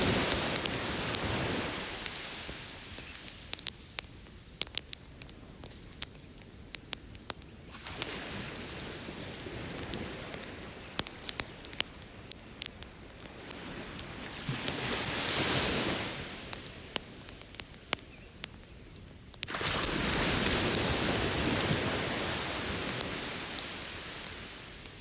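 Beach bonfire crackling with frequent sharp pops, over ocean surf that swells and recedes. Waves wash in loudly about fifteen seconds in and again after about twenty seconds, then fade.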